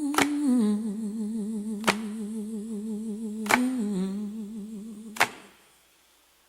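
A woman humming long wordless notes with a wavering vibrato, stepping down in pitch twice, over a sharp click about every second and a half. The hum fades out about five seconds in and the track drops to near silence.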